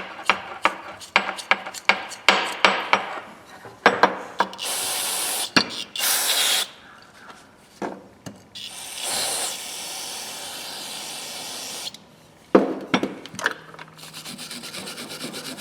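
Metal adjustable wrenches clinking and knocking as they are handled, then hissing bursts of aerosol carburetor cleaner spray. Near the end comes rapid back-and-forth scrubbing with a brush.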